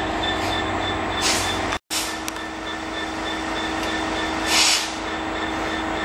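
Freight train of tank wagons rolling past, a steady rumble of wagons on the rails with a constant hum. Two short hisses break in, about a second and about four and a half seconds in.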